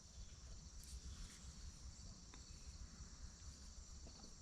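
Near silence: faint outdoor background with a steady high-pitched buzz and a few faint ticks, likely from the condenser being fitted.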